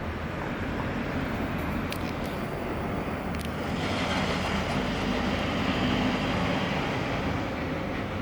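Steady low rumble of a passing vehicle, growing louder through the middle and easing off slightly near the end.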